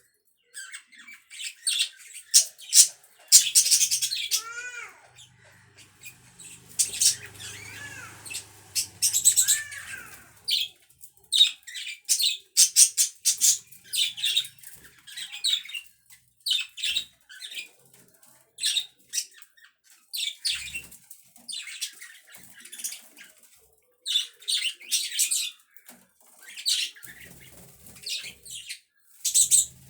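Pet budgerigars chattering and chirping, a rapid run of short high calls with a few swooping whistles, going on with brief pauses.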